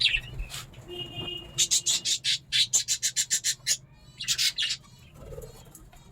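Budgerigars calling: a fast run of short, high, squawky chirps, about five or six a second, with a few more calls just after.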